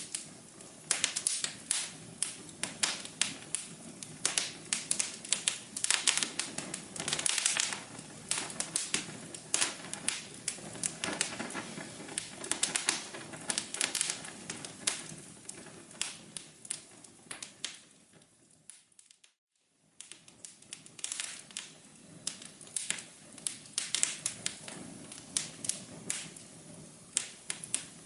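Wood fire crackling, with frequent sharp pops and snaps. A little past halfway it fades out to silence for about a second, then comes back.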